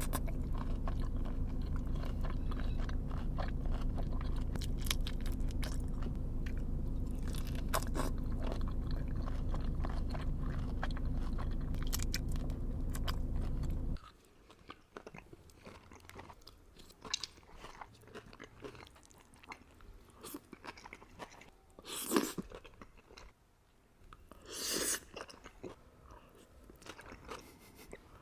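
Close-miked mukbang eating: a person chewing and biting food, with many small crunches and clicks. A steady low hum sits under the first half and cuts off abruptly about halfway. After that the chewing is quieter and sparser, with two louder bursts in the later part.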